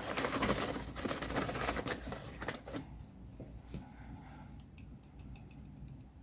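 Dry tile grout powder being scattered and worked over a model railway layout: a gritty rustling for the first two and a half seconds, then a few light taps and clicks.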